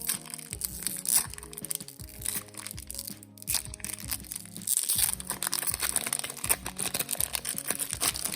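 Foil trading-card booster pack wrapper crinkling and crackling as it is torn open and handled, with many sharp crackles over background music of held notes.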